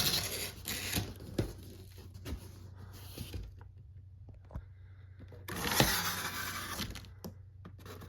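Cardboard of the ceiling fan's box being handled and pulled open: rustling and scraping, with a louder stretch of rustling about five and a half seconds in.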